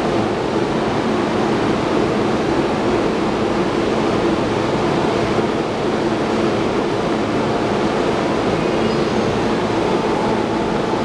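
Steady rushing noise on a station platform beside a standing JR E231-500 series Yamanote Line electric train, with a low hum under it.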